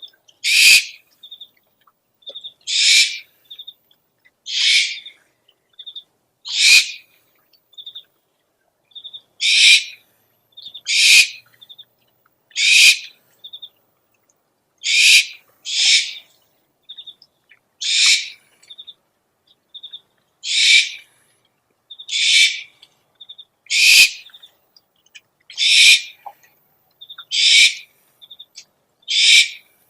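Owl calls from an owl lure recording: harsh, hissing screeches about half a second long, repeating every one and a half to two seconds, with short high chirps between them.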